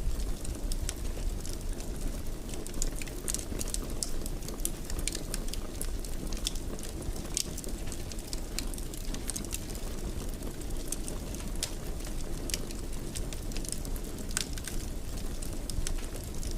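Wood fire crackling in a fireplace: a steady low rumble of the flames under frequent, irregular small crackles and pops.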